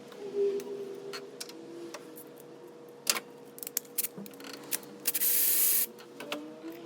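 Hand tools and engine parts clicking and knocking as an ignition coil and spark plug are taken off a 2006 Hummer H3's engine, with a one-second burst of hissing near the end.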